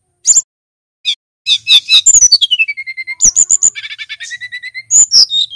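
Male brown-chested jungle flycatcher singing. A few short high notes open it, then comes a rapid run of notes with a long whistle gliding downward about two seconds in. A fast even trill follows, then a couple of loud sharp notes near the end.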